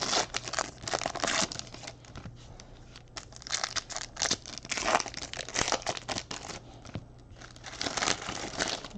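Foil trading-card pack wrappers crinkling and tearing open, with cards handled in between: an irregular run of rustling bursts and sharp clicks, loudest about a second in, around the middle and near the end.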